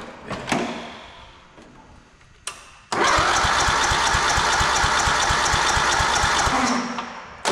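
A few knocks and clatter of handling, then a motor comes on about three seconds in and runs steadily with a fast, even beat, stopping abruptly just before the end.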